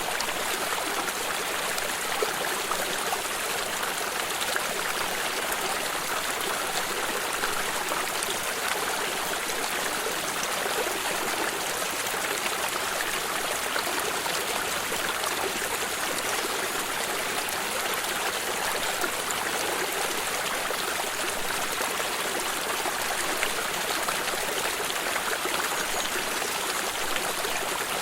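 Water of a small stream flowing and trickling steadily, a constant splashing rush with fine bubbling detail.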